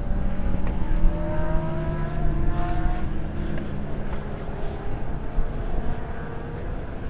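Superbike racing motorcycle engines running at high revs, their pitch climbing slowly as they accelerate, with more than one bike heard at once.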